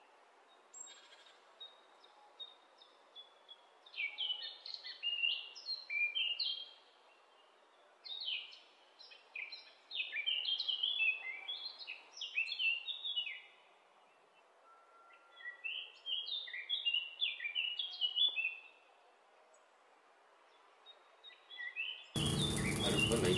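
A small bird chirping in quick runs of short notes, several runs with pauses between them, over a faint background hiss. About a second before the end a louder, dense noise cuts in suddenly.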